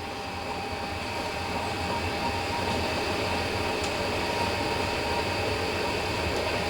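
Chinese diesel heater running on 10W-30 engine oil during start-up: a steady fan whir and burner noise with a few held tones, slowly getting louder as the heater ramps up.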